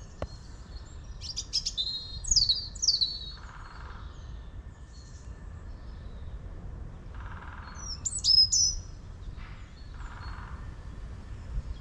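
Outdoor birdsong. Small birds give short, high, falling chirps, loudest about two and eight seconds in. Fainter, lower half-second bursts from a woodpecker recur several times.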